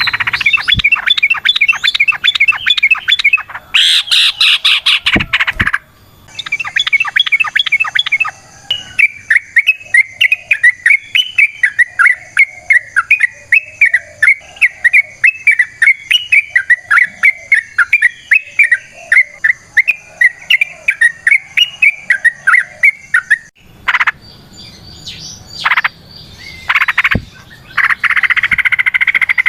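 Yellow-vented bulbul (trucukan) singing its long, rapid chattering song, a string of short bubbly notes at about four to six a second. The song breaks off and restarts abruptly a few times.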